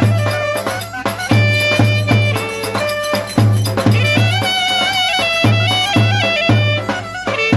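Turkish folk dance music played live: a reedy wind instrument carrying a fast, ornamented melody over a heavy bass drum beat that falls in groups of strokes.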